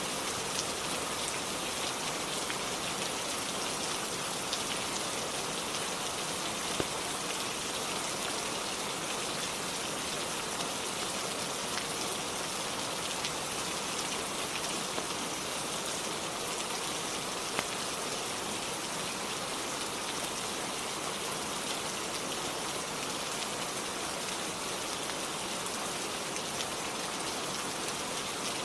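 Steady rain falling on a cabin roof, an even hiss with scattered small sharp ticks of drops.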